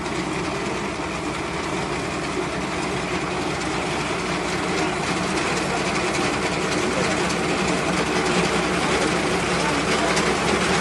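Tractor engine running with a front-mounted reaper binder working, a steady mechanical clatter that grows slightly louder toward the end.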